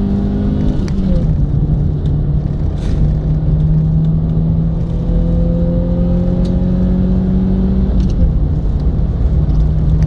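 Subaru Impreza's flat-four boxer engine pulling hard, heard from inside the cabin over heavy road rumble. An upshift about a second in drops the pitch, the revs climb slowly, and a second upshift about eight seconds in drops them again as the car accelerates.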